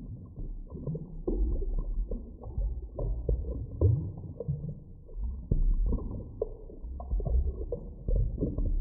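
Muffled underwater ambience: a low rumble that swells and ebbs every second or two, with scattered clicks and pops and nothing in the higher pitches.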